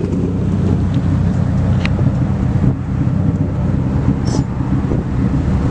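BMW E36 3 Series coupe's engine idling steadily, a low, even exhaust note with no revving.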